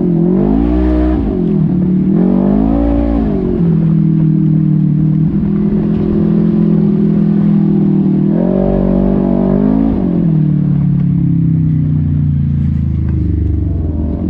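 Side-by-side off-road vehicle engine revving up and down several times, holding a steady pitch for a few seconds in the middle, then winding slowly down near the end.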